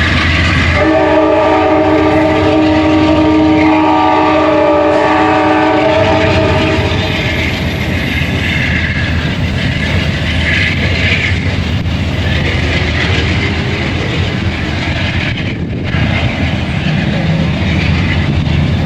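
An Amtrak P42DC locomotive's K5LA five-chime air horn sounds one long chord, starting about a second in and stopping about five seconds later. After that a passenger train rolls past with a steady rumble and wheels clacking over the rail joints.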